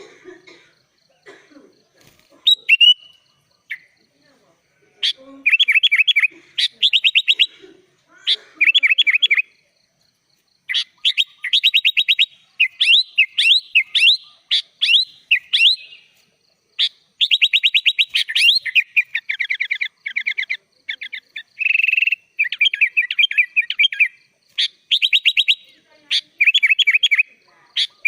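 Sooty-headed bulbul (kutilang) singing a varied song of rapid trilled and chattering phrases with short pauses between them, sparser for the first few seconds.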